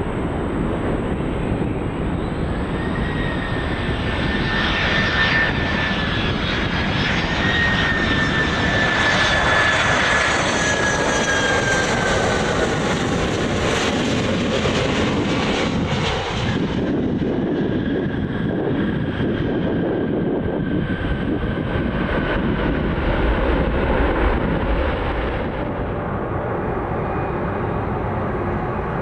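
Widebody jet airliner's engines passing close by, a steady roar with a high fan whine that slowly falls in pitch as the aircraft goes past. The high rush drops away suddenly about sixteen seconds in, leaving a fainter whine and low rumble.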